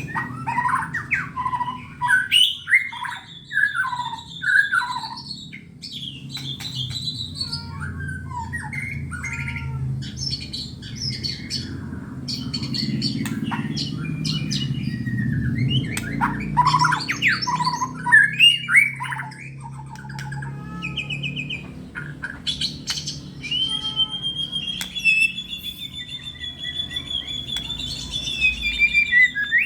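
White-rumped shama (murai batu) singing continuously: a varied run of rapid whistled phrases and chattering notes, then a long held high whistle near the end. A steady low hum runs underneath.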